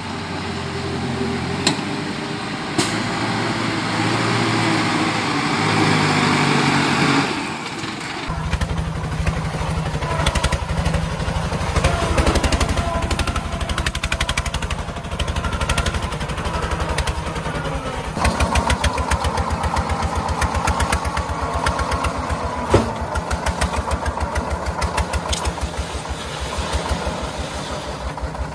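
Walking tractor's engine running, with a hissy stretch until about seven seconds in, then a rapid, even firing beat.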